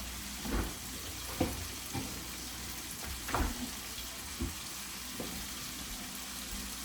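Chicken frying in a pot with a steady sizzle, while a utensil stirring it knocks and scrapes about six times.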